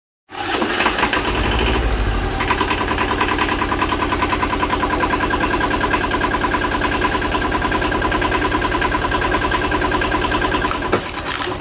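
Tractor engine running steadily with an even, rapid firing pulse, with a deeper rumble for the first couple of seconds.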